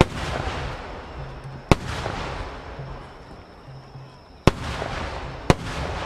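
Aerial firework shells of a starmine display bursting: four sharp booms, one right at the start, one just under two seconds in and two more near the end, each trailing off in a long echo.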